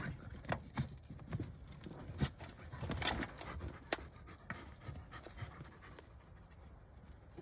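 Dog panting while digging in dry dirt with its paws, giving short irregular scrapes and scuffs that die down about six seconds in. He is digging after mice.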